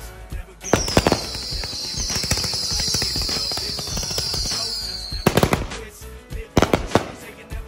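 192-shot 500-gram aerial repeater firework cake firing: rapid sharp bangs of shots launching and breaking, in clusters. From about a second in to about five seconds there is a sustained high hiss with repeated falling tones, which cuts off suddenly.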